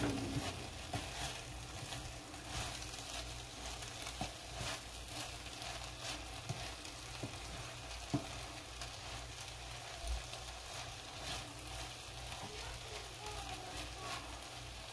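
Quinoa and chickpea mixture sizzling in a nonstick frying pan as it is stirred with a wooden spatula, with scattered light scrapes and knocks of the spatula against the pan. The sizzle is the last of the cooking water boiling off, with only a little left.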